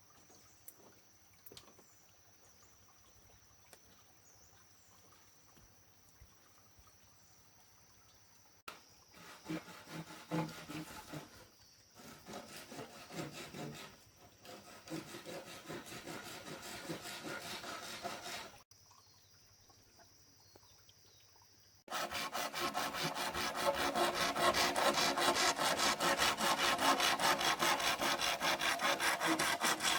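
A saw cutting through bamboo in rapid, steady strokes, starting loud about 22 seconds in. Before that come irregular scraping and knocking on wood, and quieter stretches with only a faint steady high whine.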